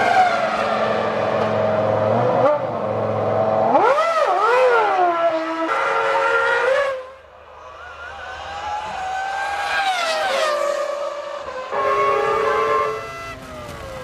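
Formula One cars' 3-litre V10 engines running at high revs, the pitch climbing and dropping with gear changes and passes. The sound changes abruptly every second or few, as short shots are cut together; it is quieter for a few seconds after about 7 s.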